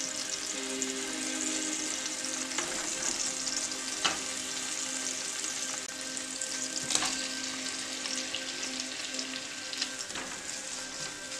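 Minced garlic, ginger and green onion sizzling in hot oil in a nonstick pan, a steady frying hiss, with a few sharp clicks of the utensil stirring against the pan; shrimp go in and keep frying toward the end.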